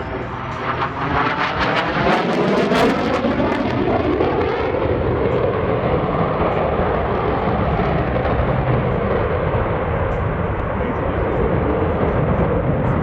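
F-16C Fighting Falcon's jet engine roaring as the fighter flies past. A sweeping, phasing whoosh fills the first few seconds, then it settles into a steady loud roar.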